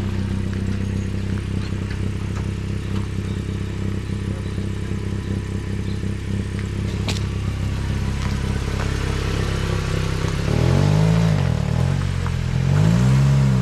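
Modified Maruti Gypsy's engine idling steadily, then revved up and down twice near the end as it moves off.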